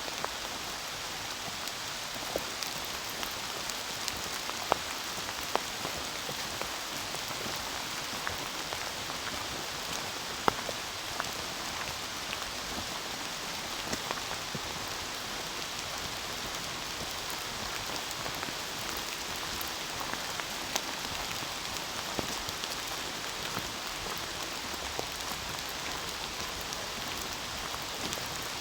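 Heavy rain pattering steadily: a dense hiss with single drops now and then ticking out louder.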